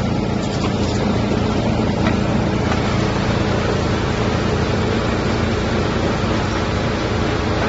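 Drum wood chipper running steadily under load, a continuous loud machine hum and rumble, with a few short cracks in the first few seconds as wood waste is chipped.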